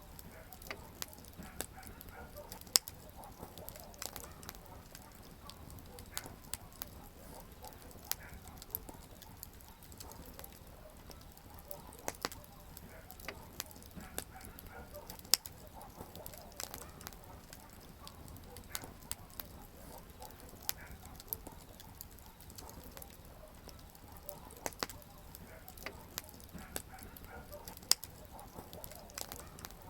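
Campfire wood burning and crackling: irregular sharp snaps and pops over a soft hiss, with a few louder pops standing out.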